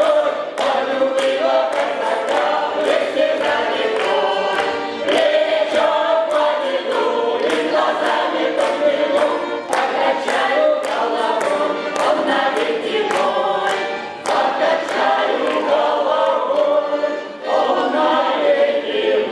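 Cossack folk song ensemble singing as a choir, in full voice throughout, with sharp percussive beats marking the rhythm.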